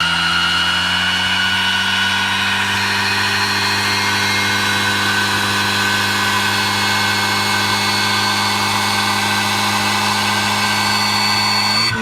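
Tofaş car engine held at steady high revs through its exhaust during a burnout, with a steady high-pitched tyre squeal over it.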